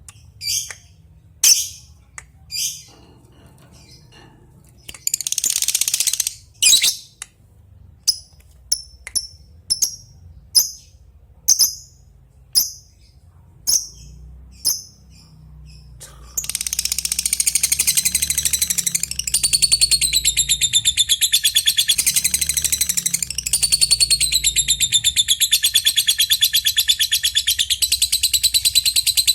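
Lovebird calling: sharp single chirps spaced about a second apart, the 'ngetik' calls keepers take as calling to a rival. About halfway through it breaks into a long, unbroken, very rapid chattering trill that rises and falls in pitch, the 'ngekek' song.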